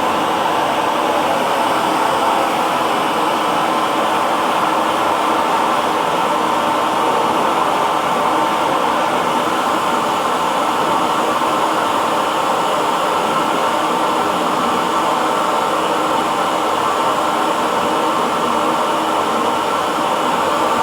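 Hair dryer blowing steadily, a loud, even rushing whir with a faint steady hum in it.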